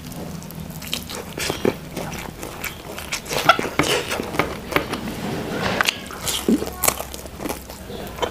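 Close-miked eating sounds: a person biting into and chewing a fried corn fritter with rice, eaten by hand. The chewing comes as many short, sharp clicks and wet smacks at an uneven pace.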